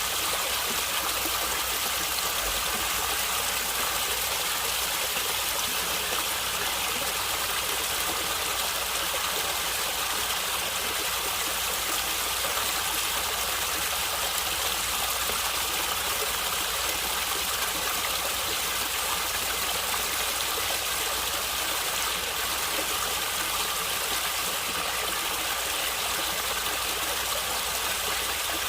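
A stream of water running and gurgling steadily, a constant rushing with most of its sound in the upper range.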